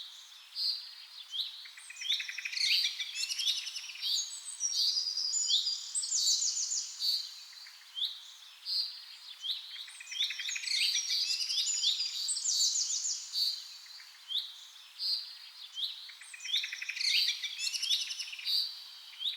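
Several birds chirping and calling together, a busy chorus of short high-pitched notes, quick trills and rising and falling whistles.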